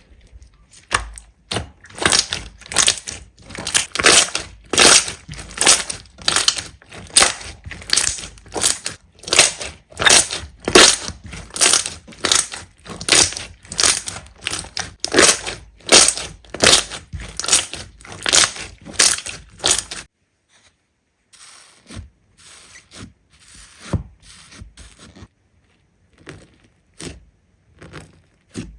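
Slime being pressed and squeezed by hand in a steady rhythm, about two or three squishes a second. About two-thirds of the way through this stops, giving way to quieter, scattered crackles.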